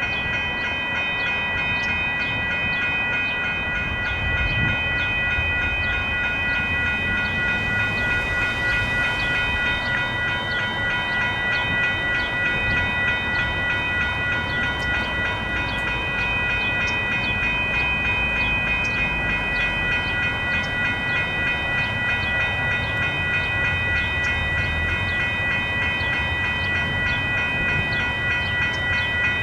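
Railroad crossing electronic bells, a WCH Type 1.5 and a GS Type 1 e-bell, ringing steadily together as a ringing tone that pulses without a break. A low rumble from a passing light rail train lies under them and swells twice.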